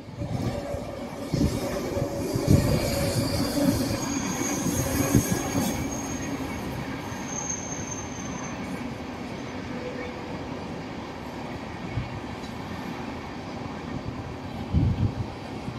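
Indian Railways express passenger train of red coaches running past on the line: a steady rumble of wheels on rail, loudest in the first few seconds and easing as the rest of the train goes by. A high wheel squeal comes about four seconds in and again briefly about eight seconds in. A few low thumps come near the end.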